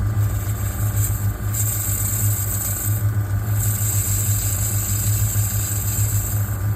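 Metal lathe running with a steady low hum while a grooving tool cuts a brass piston valve; a high hiss from the cut comes in about a second and a half in, drops out briefly around three seconds, and returns until near the end.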